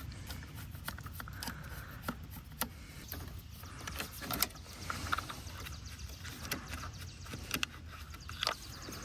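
Hand tools clicking and clinking against metal parts of an ATV while its carburetor is being taken off, with scattered irregular clicks and knocks and a few brief squeaks.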